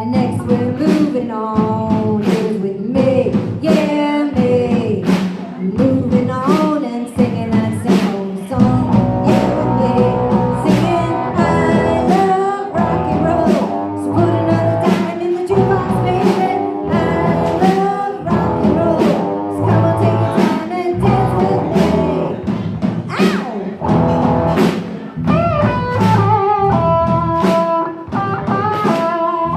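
Rock band playing an instrumental stretch: electric guitar lines with bent notes over a steady drum beat and bass.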